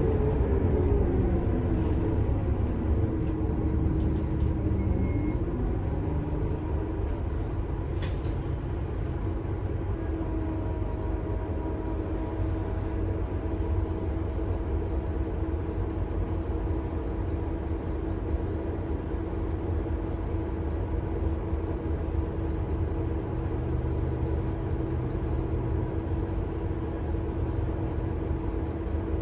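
Scania K280IB bus with its 9.3-litre five-cylinder DC9 turbo diesel and ZF-Ecomat six-speed automatic, heard on board: the engine's pitch falls over the first few seconds, then it runs on steadily with a low rumble and a steady whine. A single sharp click about eight seconds in.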